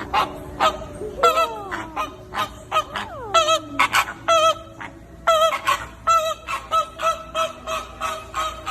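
Birds calling in quick succession: many short calls with a wavering pitch, several a second, and a couple of longer calls sliding down in pitch in the first few seconds.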